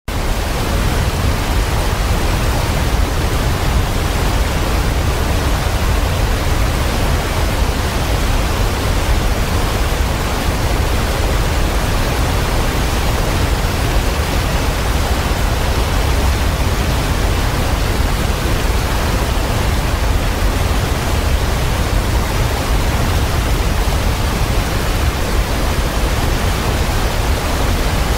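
Waterfall pouring: a loud, steady, unbroken rush of falling water, heaviest in the deep low end, cutting in suddenly out of silence at the start.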